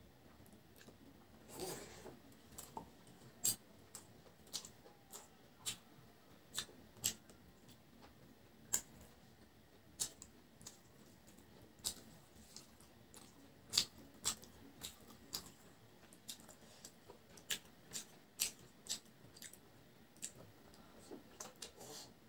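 Close-miked eating: sharp, irregular mouth clicks and lip smacks of someone chewing a mouthful of rice and curry, about one or two a second, with a softer rustle of food about two seconds in.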